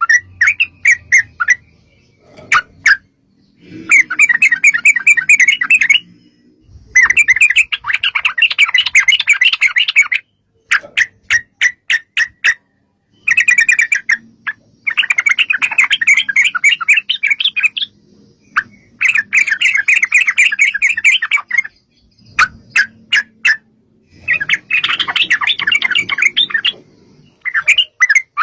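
Yellow-vented bulbuls (trucuk) calling and answering each other: bursts of fast bubbly chattering a few seconds long, alternating with series of separate sharp notes.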